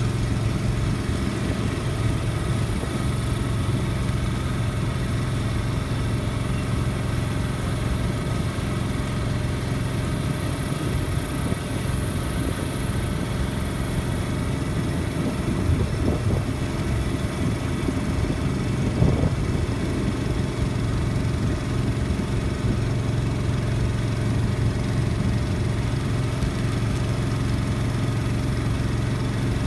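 An engine idling steadily with a low, even hum, with a brief louder knock about two-thirds of the way through.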